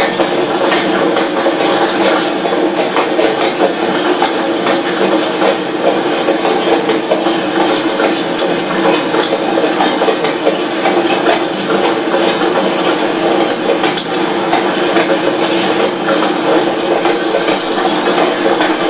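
Freight train's hopper cars rolling steadily past, with a continuous rumble and rattle and an irregular stream of wheel clicks and knocks over the rails.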